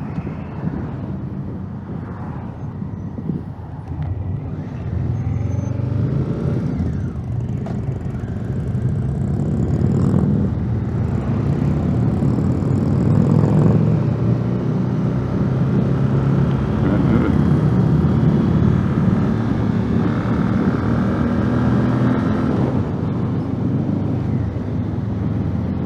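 2019 Honda Africa Twin's parallel-twin engine running on the move. It picks up speed from about five seconds in, the engine note rising, then holds fairly steady.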